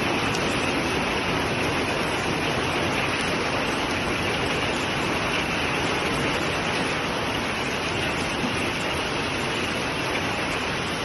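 Steady, even rush of storm water, with no separate hailstone impacts standing out.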